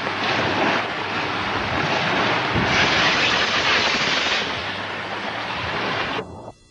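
Wind buffeting the microphone outdoors, a loud rushing noise that swells and eases, then cuts off suddenly near the end.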